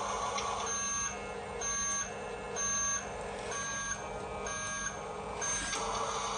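Electronic reversing-style beeper of a toy RC dump truck, sounding six short even beeps about once a second.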